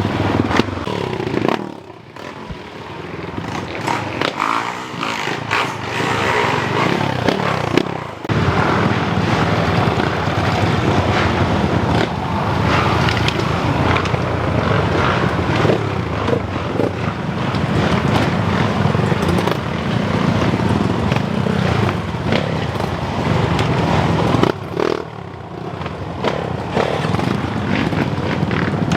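Motocross bikes' engines revving hard, the pitch rising and falling, with brief drops in loudness about two seconds in and again near the end.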